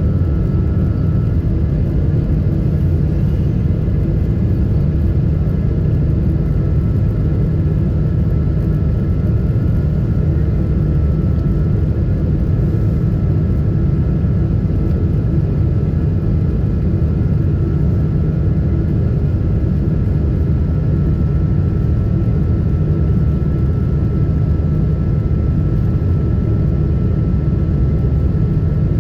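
Steady cabin noise inside a Boeing 777-300 in flight: a constant low rumble of engines and airflow, with a faint steady whine above it.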